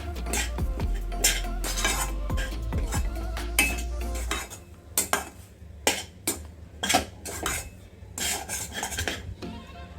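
A spoon scraping and knocking against a kadai as rice flour is stirred continuously into boiling water to form a thick dough. A low hum sits underneath and stops about four and a half seconds in.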